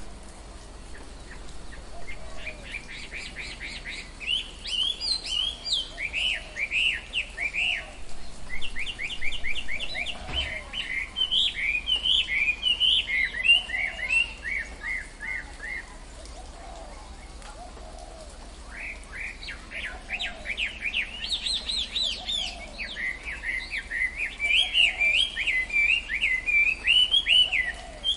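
Tropical forest birds singing: fast runs of high chirping notes in two long bouts with a lull in the middle, over a faint low call repeated about every second and a half.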